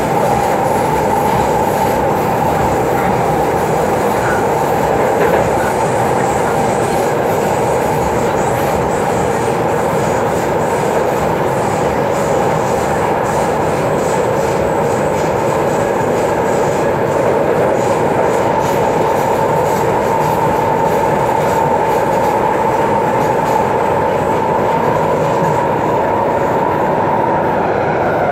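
MTR C-Train metro train running at speed, with a steady rumble and rail noise and a continuous whine that falls slightly in pitch near the end.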